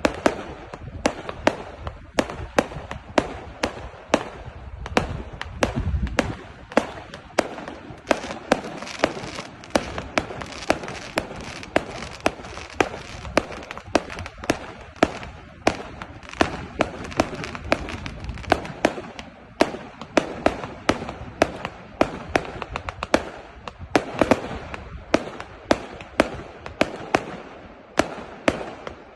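Fireworks going off in quick succession: sharp bangs at about two a second, with a continuous noisy background between them.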